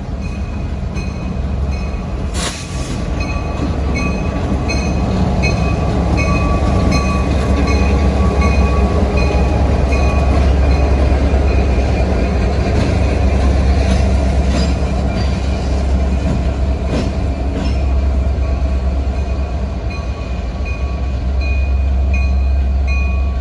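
Norfolk Southern diesel locomotives running light (no cars) pass close by, a heavy engine rumble that builds toward the middle and eases near the end. A steady ringing repeats about twice a second throughout, with a few sharp clicks from the wheels.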